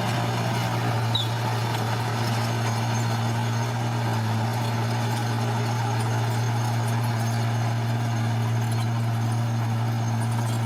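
Heavy machinery's diesel engine running steadily with an even low hum.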